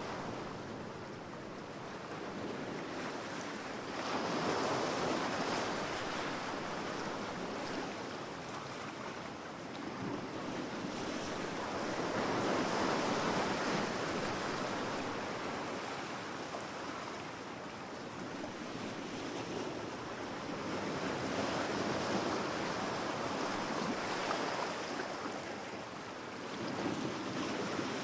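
Ocean surf on a beach: waves breaking and washing up, the rush of water swelling and fading about every eight seconds, four times.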